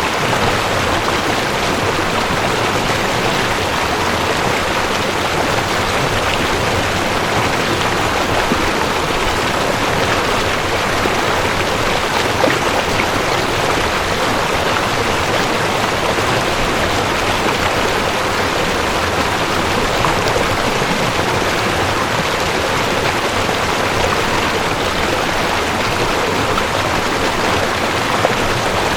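Mountain stream rushing over rocks: a steady, unbroken splashing rush of water.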